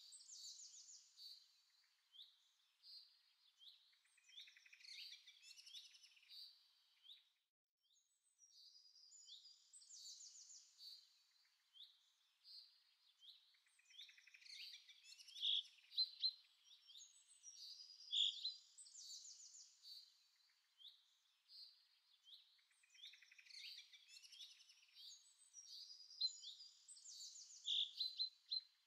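Faint songbirds chirping and trilling: strings of short, high calls with brief pauses, and a lull about seven to eight seconds in.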